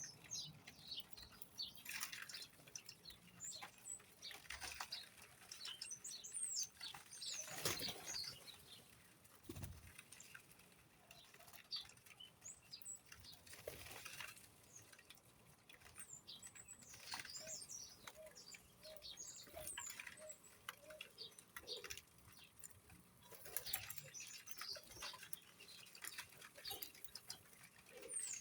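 Birds chirping in many short, high calls, with fluttering wingbeats and scattered light taps.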